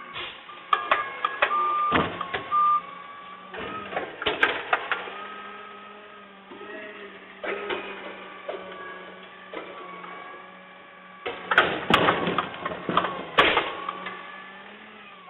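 Garbage truck at work: a steady engine hum with a wavering hydraulic whine, broken by four bursts of clattering and banging, the loudest about 12 to 13 s in.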